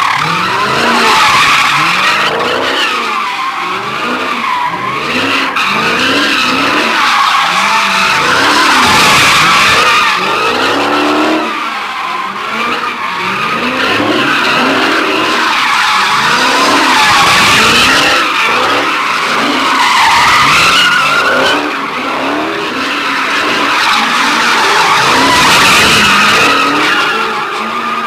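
Tires squealing without a break as V8 Dodge muscle cars do burnouts and drifts, the engines revving up and down under the squeal.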